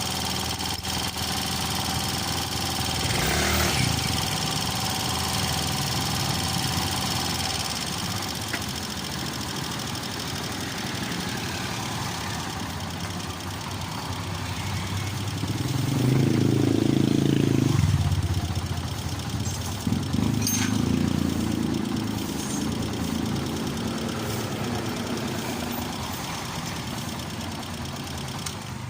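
Honda TMX125 Alpha's single-cylinder four-stroke engine running at idle after a top overhaul, revved up and back down a few times, most strongly about halfway through.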